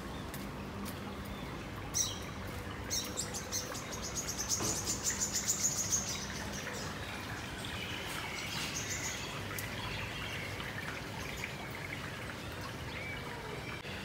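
Birds chirping over a steady background hiss, with a fast, high trill of rapid notes a few seconds in and scattered fainter chirps later.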